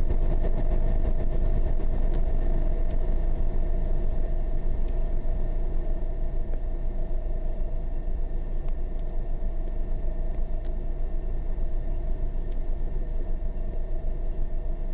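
An engine running steadily at idle: a low rumble with a constant hum.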